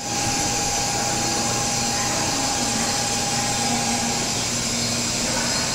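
Steady whirring hiss of a 700 series Shinkansen train standing at the platform with its onboard equipment running, with a faint steady tone that fades out about four seconds in.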